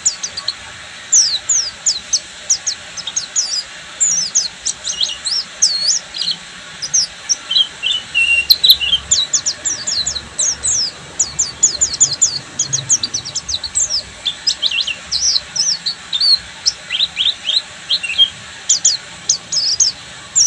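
A pleci buxtoni (Oriental white-eye) singing a continuous, fast, high-pitched twitter of short down-sweeping chirps, the rapid 'ngeriwik' song prized by songbird keepers, with brief pauses between runs.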